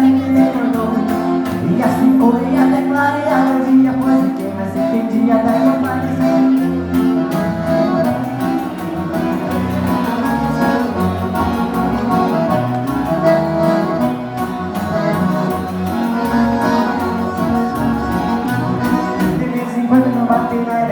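Live regional dance-band music led by an accordion (gaita), playing over a pulsing bass and a steady beat.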